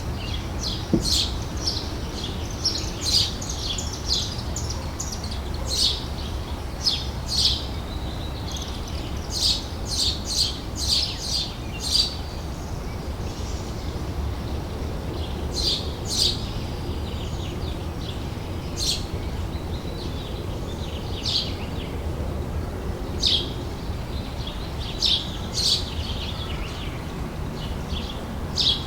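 Outdoor summer ambience: songbirds chirping in short, irregular bursts over a steady low background rumble.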